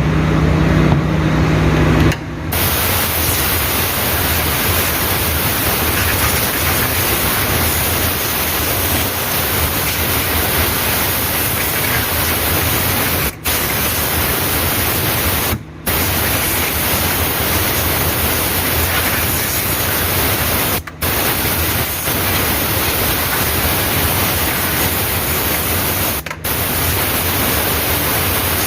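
Compressed-air blow gun hissing steadily as it blows dust out of a truck's air filter, starting about two seconds in and briefly stopping four times when the trigger is let go.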